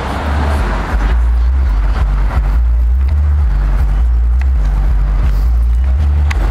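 Heavy bass notes from a car's subwoofer system, holding deep notes that step between a few pitches every second or so, with almost nothing above the bass.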